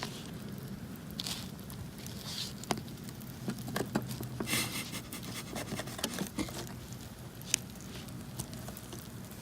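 Knife sawing at a grilled steak on an iron plate: scattered scrapes and sharp clicks of metal on the plate, the knife cutting poorly.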